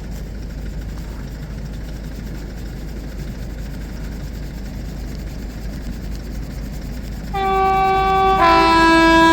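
A CrossCountry Voyager diesel train's two-tone horn sounds long as the train approaches the level crossing: a higher note about seven seconds in, then a lower note that carries on. Before it there is only a steady low rumble.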